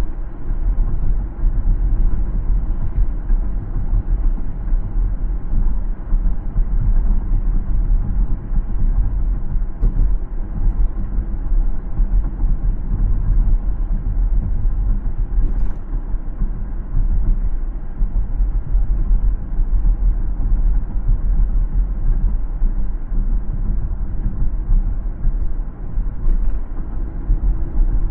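Steady low rumble of a car driving on the road: tyre and road noise with engine drone, strongest in the deep bass and holding level throughout.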